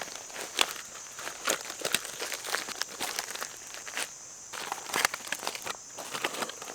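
Irregular rustling and crinkling handling noise, a run of short crackles at uneven intervals, over a steady high hiss.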